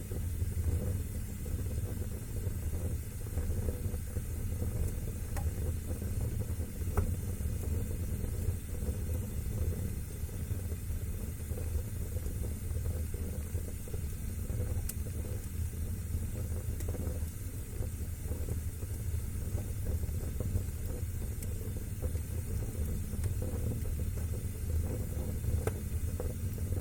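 Wood fire burning in a fireplace with a steady low rumble, broken by a few faint scattered crackles and pops.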